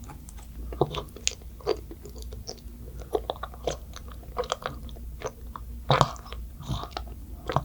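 Close-up eating sounds: wet, sticky chewing and biting with irregular clicks and crunches, and a few louder bites, the loudest about six seconds in.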